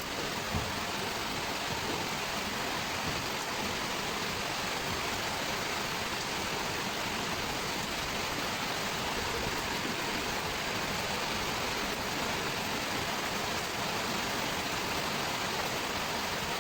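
Steady hiss of rain falling outside.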